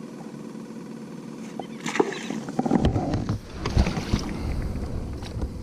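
Knocks, clatter and water sloshing around a fishing kayak as gear is handled aboard, starting about two seconds in over a steady low background hum.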